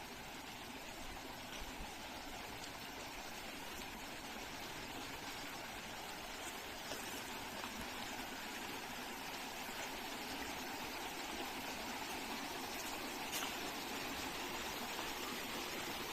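A stream running steadily, its rushing slowly growing louder, with a few faint ticks over it.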